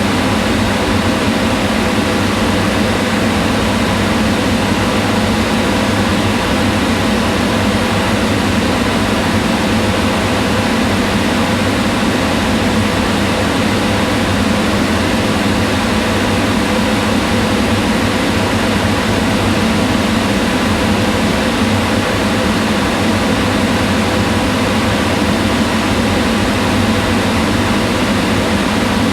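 Kitchen range hood fan running steadily, a constant whoosh of moving air over a low hum with faint steady tones.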